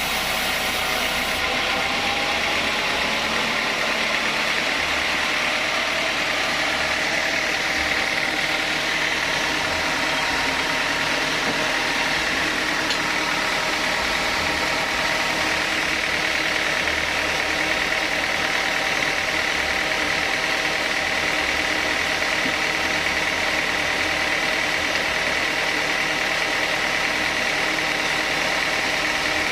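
Sawmill saw running steadily while it cuts an old teak log: a constant mechanical noise with a high, even whine from the blade.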